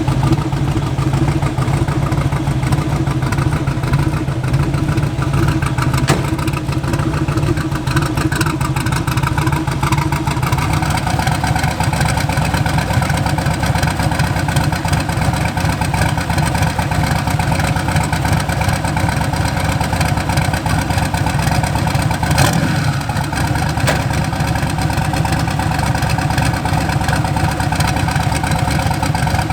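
Twin-turbo LS V8 of a Chevy S10 drag truck running while the truck drives at low speed, a steady engine drone whose tone shifts about ten seconds in, with a single sharp click about two thirds of the way through.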